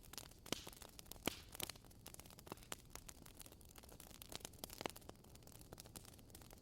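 Burning firewood crackling faintly, with irregular sharp pops and snaps; the strongest come about half a second in, just over a second in, and near five seconds in.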